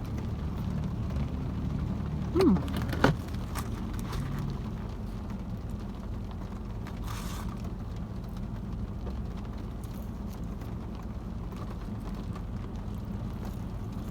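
Steady low rumble inside a car cabin with scattered light ticks. About two and a half seconds in, a short sound glides down in pitch, followed by a sharp click.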